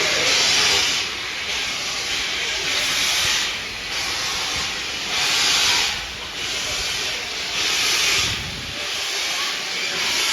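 Steam locomotive working at low speed, giving slow, regular hissing beats of steam about every second and a bit, alternately stronger and weaker.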